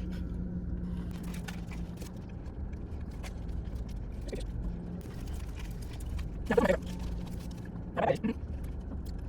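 Paper food wrapper rustling and crinkling over a steady low rumble and hum. Two short vocal sounds come in the second half.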